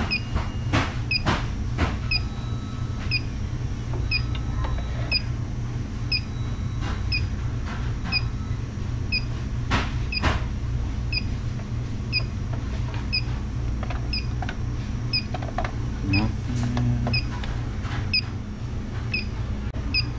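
Electronic refrigerant leak detector chirping at a steady slow rate, about once a second, while the probe is worked around the R290 unit's tubing, with a few knocks from handling. A steady low hum runs underneath.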